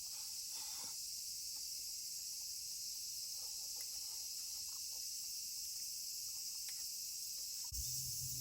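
Steady high-pitched chorus of summer insects, with a few faint scattered ticks. Near the end, music with low sustained notes comes in.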